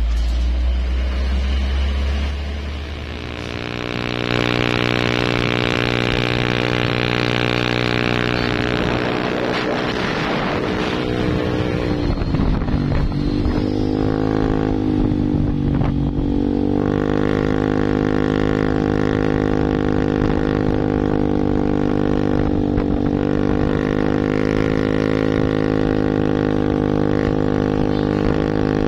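Heavy truck's diesel engine running under load, a steady droning tone whose pitch dips about twelve seconds in and again around sixteen seconds, then holds.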